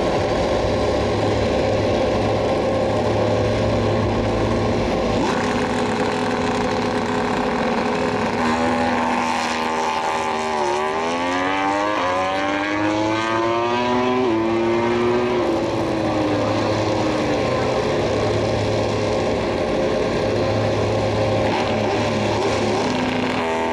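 MotoGP racing motorcycle engines running loudly, with the engine note rising and falling in pitch through the middle as a bike revs and accelerates, then settling back to a steady note.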